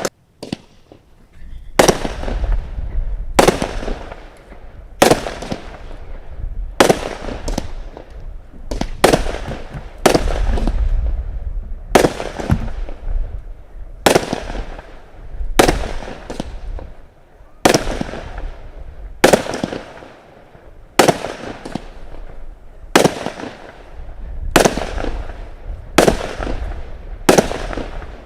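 Consumer firework cake firing aerial shells: a loud bang every second or two, each trailing off briefly, with a low rumble in between.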